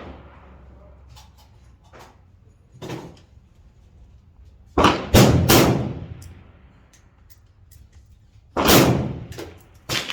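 Rifle gunshots: a quick cluster of loud shots about five seconds in, then two more single shots near the end, each with a short echoing tail, and fainter distant shots and clicks between.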